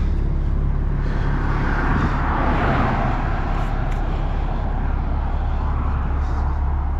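A vehicle engine running steadily with a low hum, and a rush of noise that swells and fades about two to three seconds in.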